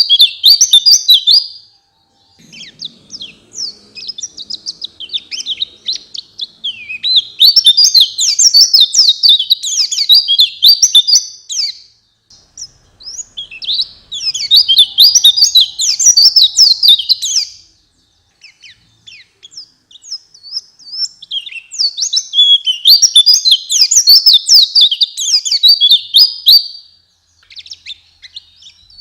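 White-eye (pleci) singing in fast, high, twittering phrases of three to five seconds each, about five of them with short pauses between; the one about three seconds in is quieter.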